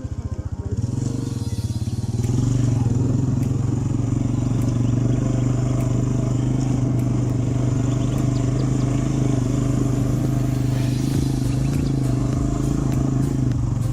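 Italika TC-250 motorcycle engine running under way. It grows louder about a second in as the bike pulls away, then holds a steady drone.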